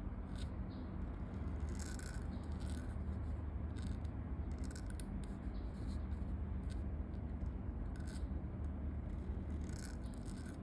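A pen nib scratching across paper in short irregular strokes as someone writes, over a steady low ambient rumble.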